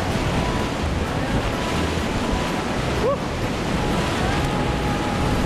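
Rushing whitewater of a river rapid: a steady hiss and roar of moving water, with a couple of faint brief rising tones over it.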